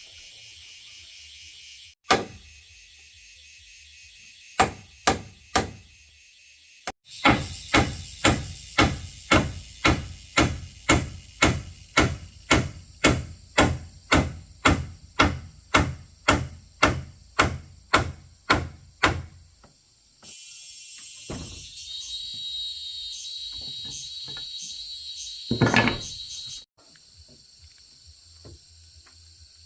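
Hammer striking wood: a few separate blows, then a steady run of about two blows a second for some twelve seconds, as in nailing timber. Insects buzz faintly behind.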